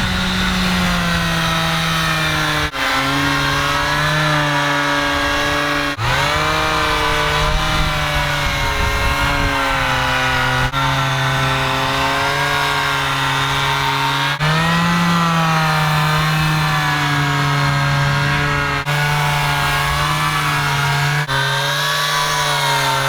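Power sander running on a boat hull with 180-grit paper, its motor pitch sagging and rising as pressure on it changes. The sound breaks off and resumes abruptly several times.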